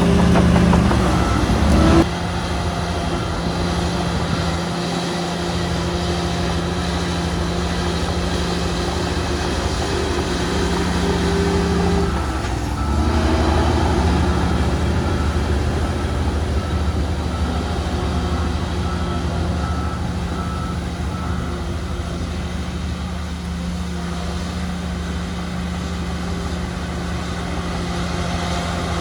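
Diesel engines of heavy earthmoving machinery running steadily at a loud level, with an abrupt change in the sound about two seconds in and another shift near the middle.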